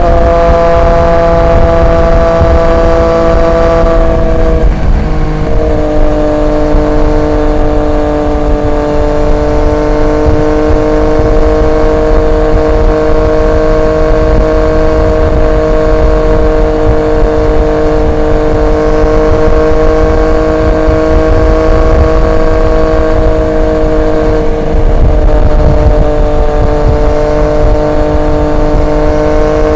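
Triumph Street Triple 765 RX inline-three engine through an SC Project S1 exhaust, cruising at steady throttle under a low wind rumble. Its pitch drops slightly about five seconds in, then holds steady.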